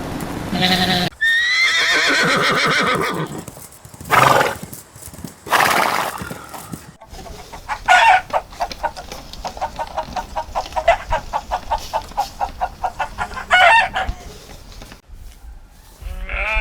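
Farm animals calling in a string of separate clips: a pitched call, two short noisy blasts, then a long run of quick repeated calls.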